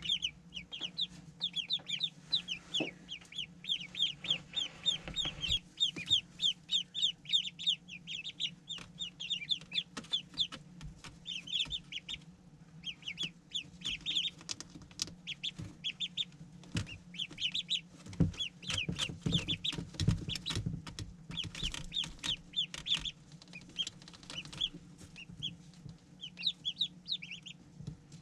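A group of day-old ducklings peeping continuously in quick, high calls, with many sharp clicks mixed in and a faint steady hum underneath.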